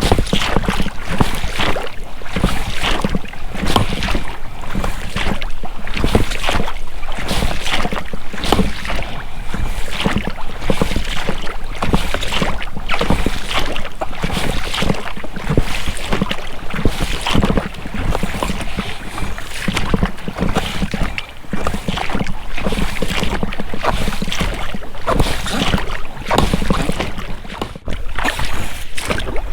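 Oars splashing and dipping in water as an inflatable boat is rowed, with the rubber rowlocks creaking and a low rumble of wind on the microphone. The splashes come close together without a break.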